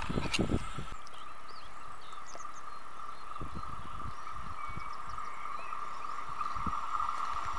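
A steady high hum from an approaching electric train, growing louder near the end, with birds chirping over it. In the first second, the low rumble of a receding train cuts off abruptly.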